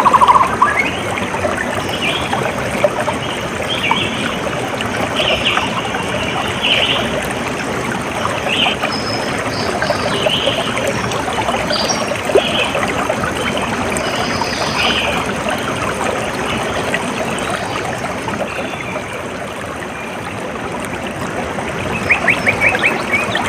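Water trickling and flowing steadily, with short high bird calls scattered over it and a quick rapid trill near the end.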